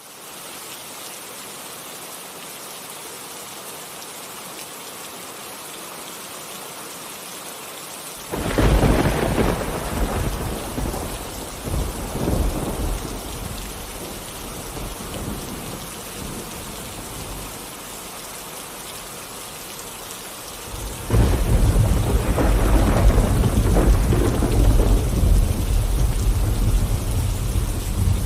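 Steady rain falling, with two rolls of thunder. The first breaks suddenly about eight seconds in and rumbles away over several seconds. The second starts about two-thirds of the way through and keeps rumbling.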